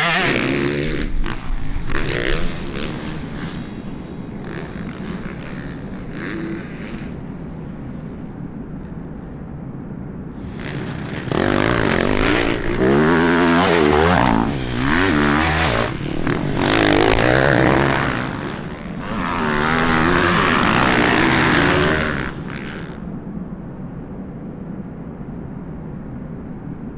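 Motocross bike engines revving, their pitch rising and falling as the bikes accelerate and pass. There is a loud burst near the start, a steady lower engine noise after it, and a long loud run of revving through the middle, before it settles back to quieter engine noise.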